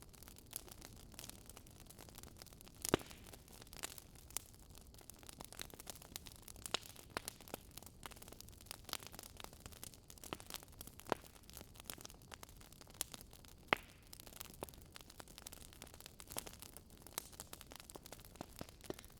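Wood fire crackling: irregular sharp pops and snaps over a soft, steady hiss, with a louder pop about three seconds in and another near fourteen seconds.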